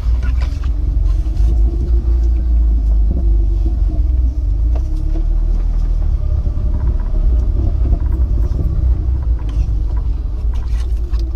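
Jeep engine running at low revs as it crawls down a steep rocky hill, a deep steady rumble with a few short knocks along the way.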